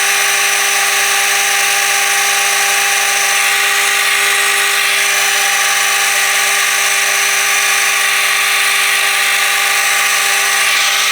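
Metal lathe running while turning a brass blank: a steady machine whine with several fixed tones over a continuous cutting hiss.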